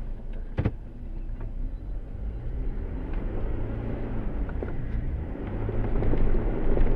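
Jeep engine running under load as it drives through deep mud, getting louder toward the end. There is a sharp knock about half a second in.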